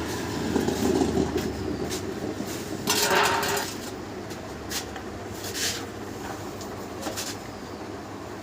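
Bajaj Discover's single-cylinder motorcycle engine running steadily, with metallic clanks and clicks over it; the loudest clatter comes about three seconds in.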